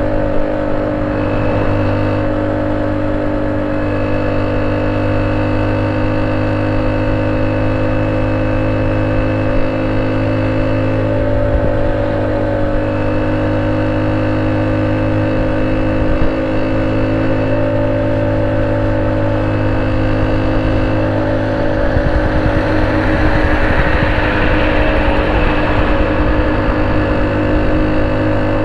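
Honda C70's small single-cylinder four-stroke engine idling steadily through a banana-style aftermarket exhaust. Its note stays even, growing slightly louder and hissier about three-quarters of the way through.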